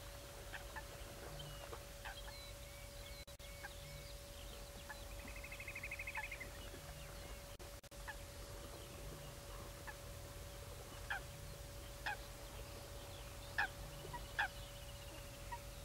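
Bird calls from the reedbed: scattered short sharp notes, with a rapid trill about five seconds in and another near the end, over a faint steady hum.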